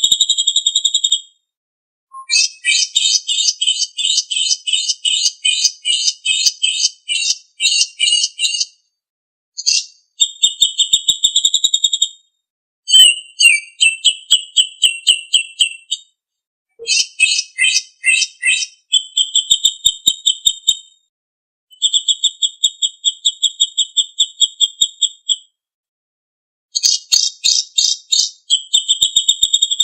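A songbird singing shrill, rapid trills in phrases of a few seconds, separated by short pauses. Some phrases are fast pulsing rattles and others are steady ringing high notes.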